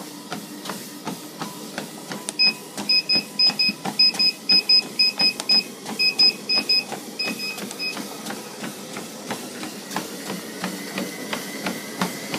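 Running footsteps pounding on a treadmill belt at about three strides a second. Between about two and eight seconds in comes a quick series of short electronic beeps from the treadmill console.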